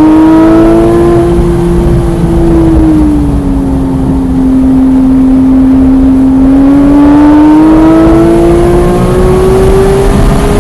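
Porsche 991.1 GT3's naturally aspirated flat-six engine under load on track, heard from onboard. Its note rises a little, eases back about three seconds in and holds, then climbs steadily through the last few seconds as the car accelerates, over road and wind noise.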